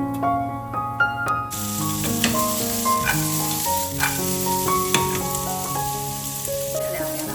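Food sizzling in a frying pan, starting suddenly about a second and a half in, with scattered crackles, over soft piano music.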